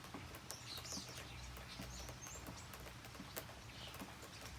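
Rain falling, with irregular drips and taps and a few faint high chirps.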